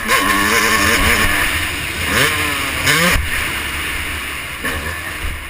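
Motocross bike engine heard onboard, revving up and down with the throttle. Two quick climbs in revs come around two and three seconds in, and the sound eases off lower near the end.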